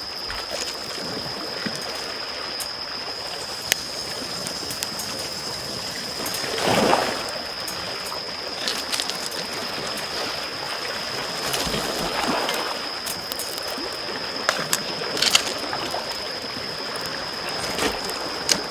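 Small waves lapping at the shore, swelling louder twice, mixed with sharp crackles and pops from a wood campfire. A steady high tone runs underneath.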